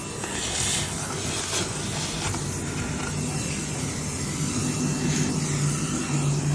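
Bee vacuum running steadily, sucking up honeybees from a cluster: a steady motor hum under a rushing hiss of air, with a few brief surges of hiss.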